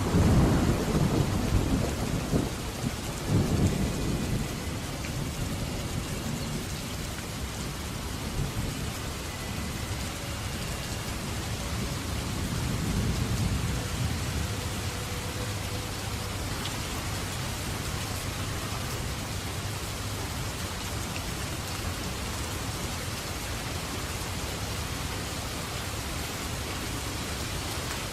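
Steady rain falling, with a roll of thunder that starts loud at the outset, rumbles on for about four seconds and swells once more, faintly, around the middle.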